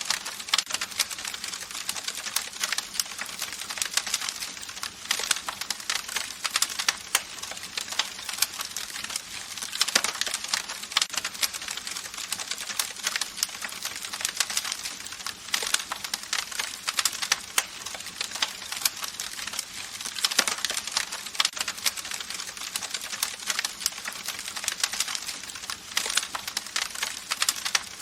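Campfire crackling: a steady stream of irregular sharp pops and snaps over a soft hiss.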